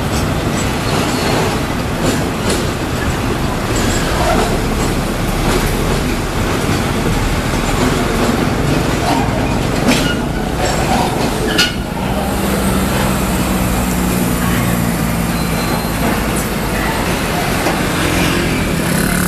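Tank wagons and the brake van at the tail of a loaded crude-oil freight train roll over a road level crossing, with dense wheel-on-rail noise, while heavy trucks' diesel engines run alongside. A single sharp knock comes about twelve seconds in. After that the train noise gives way to the steady drone of truck engines idling and pulling across the crossing.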